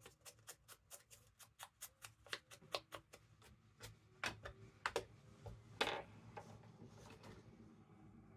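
Rapid, even run of light clicks, about seven a second, that thins out after about three seconds into a few separate, louder clicks and taps, the loudest about six seconds in.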